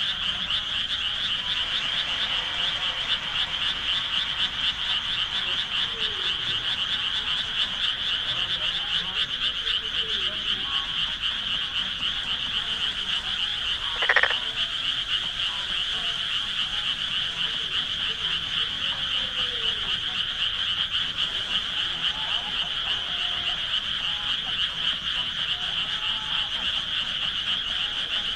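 Dense, steady chorus of many frogs calling together, a fast pulsing trill that never lets up. About halfway through, one louder, short call rises sharply in pitch over the chorus.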